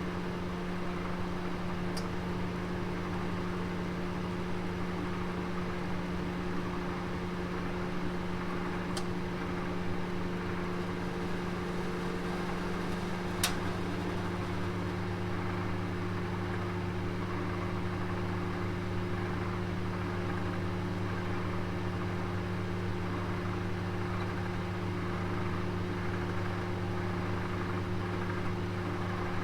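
Oven running with a roast inside, its fan motor giving a steady hum. Three brief ticks come through, the sharpest about 13 seconds in.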